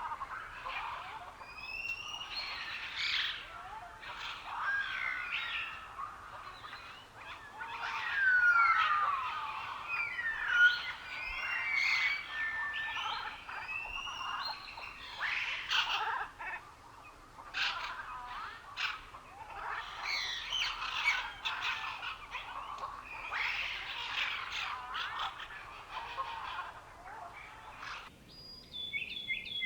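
Several birds singing at once, a dense chorus of chirps, trills and whistled glides. About two seconds before the end the chorus stops abruptly and a single steadier high chirping is left.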